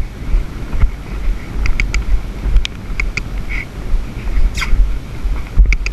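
Cob pony cantering: irregular hoofbeats and tack clicks under a heavy rumble of wind buffeting the microphone. There is a brief falling squeak about four and a half seconds in.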